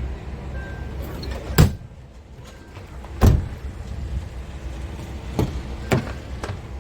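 Scania G500 truck's 13-litre straight-six diesel idling with a low steady rumble, while sharp knocks strike over it: two loud ones about one and a half and three seconds in, and lighter ones near the end.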